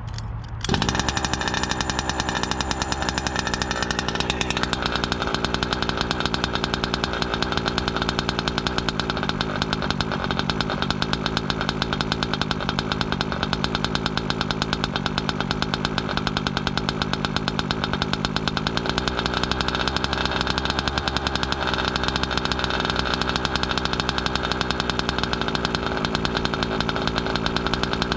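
A new ESP two-stroke RC engine starts suddenly about a second in and then runs steadily with a fast, even pulse, settling a few seconds later, during its break-in heat cycle.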